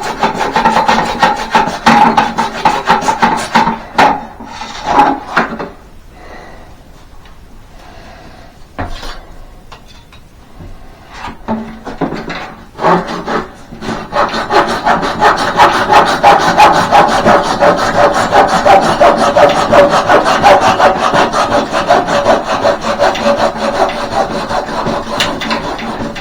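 A length of electrical conduit being cut by hand, with rapid, steady rasping saw strokes. The sawing stops for several seconds partway through, then starts again and runs on.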